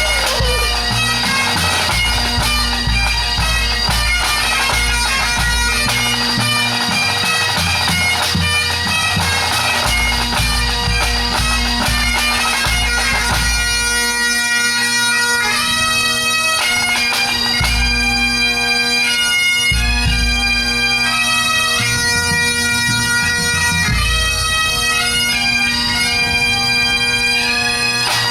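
Pipe band playing a medley: Great Highland bagpipes with steady drones under the chanter melody, over bass and tenor drumming. About halfway through, the drumming thins to separate beats and the chanter tune stands out more clearly.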